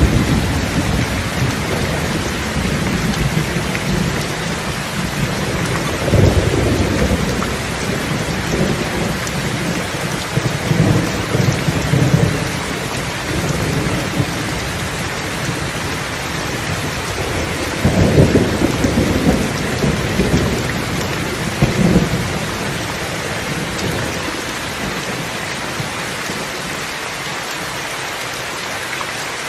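Steady rain with low thunder rolling through it several times, the rumbles dying away toward the end.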